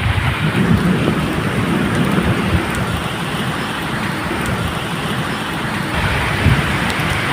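Medium rain falling steadily, with low rumbling thunder underneath.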